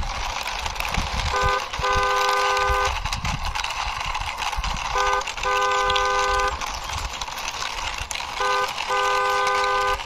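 Two-tone car horn honking, a short toot then a longer one of about a second, three times about every three and a half seconds, over a steady rough noise.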